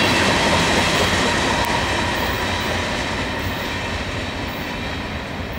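Freight cars of a mixed manifest train, tank cars and boxcars, rolling past on the rails: a steady rumble of wheels with a faint ringing squeal, fading as the cars move away.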